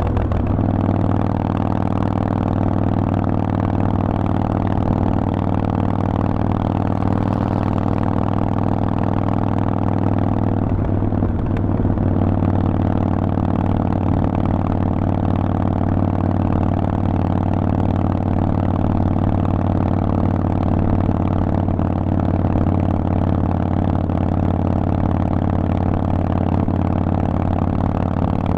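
Harley-Davidson Forty-Eight's air-cooled 1200 cc Evolution V-twin running through an aftermarket Vance & Hines exhaust, held at steady revs, with a brief change in revs about eleven seconds in.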